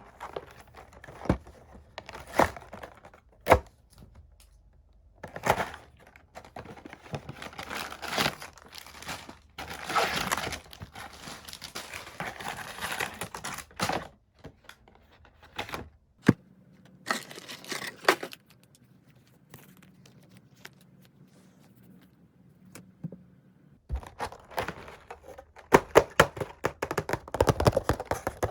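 Plastic wrappers crinkling and being torn open in bursts, with sharp taps and knocks in between. There is a quiet lull with a faint low hum about two-thirds of the way through, then a dense run of crinkling near the end.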